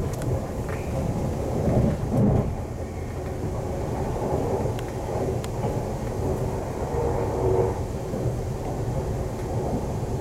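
Steady low rumble of a Class 350 Desiro electric multiple unit heard inside the carriage while it runs at speed: wheels on rail and running gear, with a few faint clicks.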